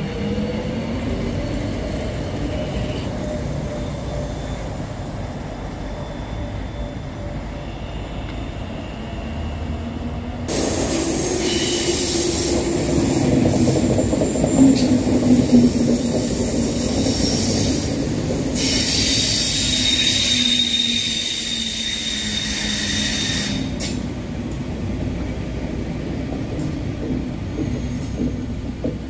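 A Translohr rubber-tyred tram running past, then, after a sudden change about ten seconds in, a RER B electric multiple unit moving along a station platform. The train's traction hum swells and fades, over a strong steady hiss that rises twice more and then drops away.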